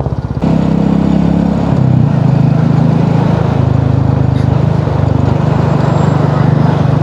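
Motorcycle engine running under way with wind rush over the rider's microphone; the engine note drops about a second and a half in, then holds steady.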